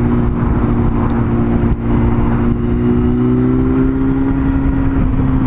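Yamaha FZS600 Fazer's inline-four engine running at a steady cruise, its pitch holding nearly level, under heavy wind rush.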